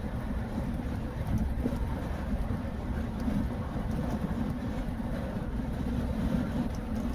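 Steady road noise inside a moving car's cabin: a low, even rumble of engine and tyres with a lighter hiss of tyres on a wet road.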